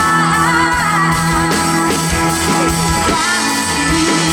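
Live country band playing a song: guitar, bass and drums, with a held, wavering sung note in the first second.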